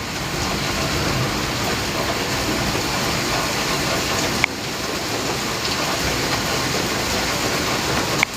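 Rain falling steadily in a thunderstorm, an even hiss, with a short sharp click about four and a half seconds in and another near the end.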